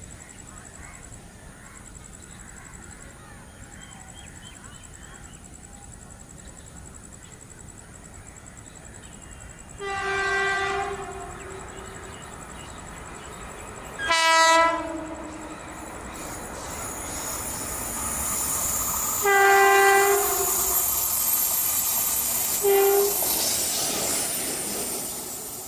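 Electric locomotive running light, sounding its horn four times: a longer blast about ten seconds in, a short one a few seconds later, another longer blast near the twenty-second mark and a brief toot soon after. Its running noise grows steadily louder as it approaches over the last ten seconds.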